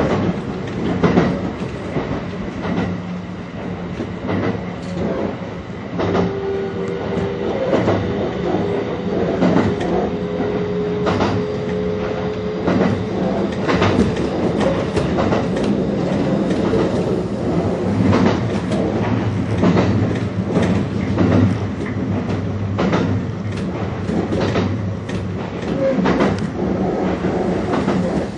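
Kintetsu Ikoma Line electric commuter train running along the line, heard from the driver's cab. The wheels knock over the rail joints at an uneven rhythm over a steady low running hum, and a thin steady tone sounds from about six to twelve seconds in.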